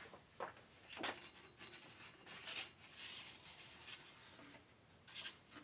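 Faint handling noises from a sanding belt being fitted onto a belt sander: a few light clicks and soft rustles, with no motor running.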